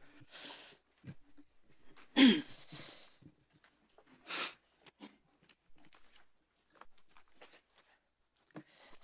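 Mostly quiet room tone, broken by scattered small clicks and breaths close to a microphone. About two seconds in comes one short vocal sound with a falling pitch, such as a cough or throat-clearing.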